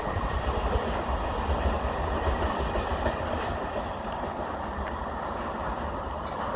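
Indian Railways passenger train running away along the track, its wheels rumbling on the rails with faint clicks, the sound slowly fading as it recedes.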